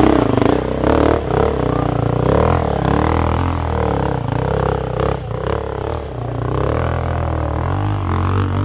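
Dirt bike engine revving hard and unevenly, its pitch rising and falling again and again, with a few knocks and clatters.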